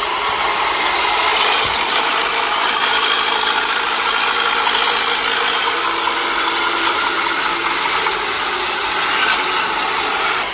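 Crawler bulldozer running under load: a steady engine drone under a continuous metallic clatter and grinding of steel tracks.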